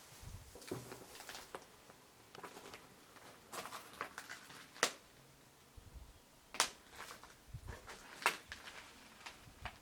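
Faint scattered crackles and clicks, with three sharper snaps in the second half.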